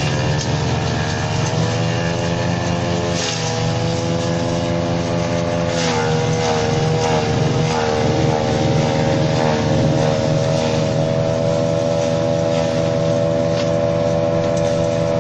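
Engine-driven branch shredder running hard while it chews through conifer branches. The engine's pitch sags briefly about three and six seconds in as it takes load, then holds steady.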